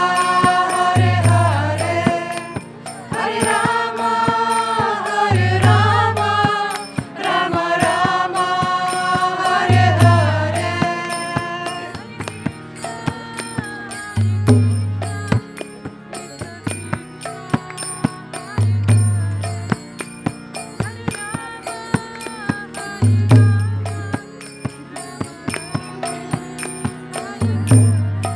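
Kirtan: voices chanting a devotional melody over steady percussion, with a deep bass note sounding about every four and a half seconds. The singing is loud for the first twelve seconds or so, then softer.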